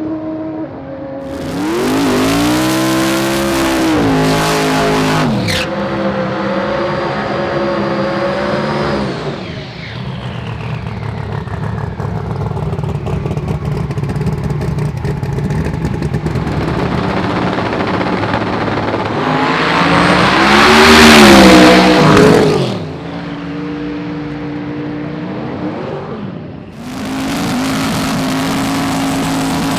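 Drag racing cars' engines revving and accelerating hard, in several separate bursts one after another. The loudest is a car at full throttle about twenty seconds in, its pitch climbing and then dropping away.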